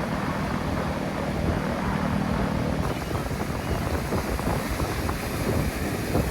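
Wind rumbling on the microphone, with a steady low engine hum that stops about three seconds in.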